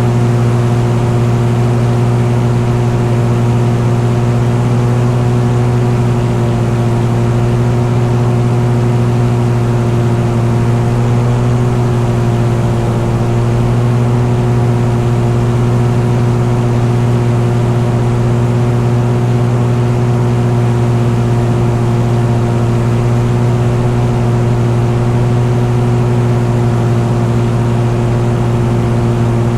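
Piston engine of a light aircraft running at a steady cruise power setting: a constant, unchanging drone with no rise or fall in pitch.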